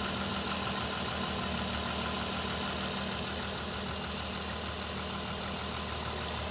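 Volkswagen R32's 3.2-litre VR6 engine idling steadily, with a repeating knock on every few turns of the engine, heard on a cold start. The owner fears it is rod knock from an accidental downshift into third at 75–80 mph, and notes it is fading as the engine warms.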